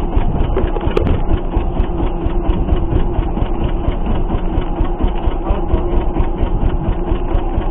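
Fishing boat's engine running steadily, a constant hum with fast, even ticking.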